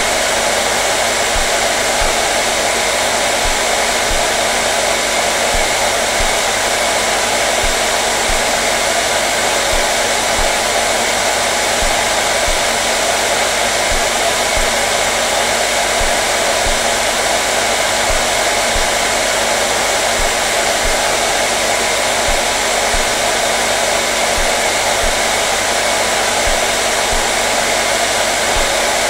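Hair dryer running steadily on one setting: a constant loud rush of blown air over motor hum, with no change.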